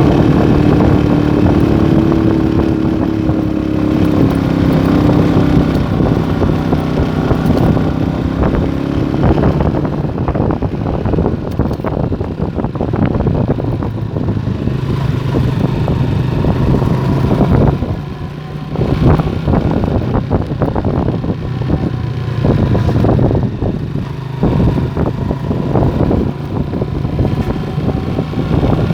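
Motorstar Star X 125 motorcycle's single-cylinder engine running under way, its pitch dropping a few seconds in. Through the second half its note is broken by many short knocks and rattles.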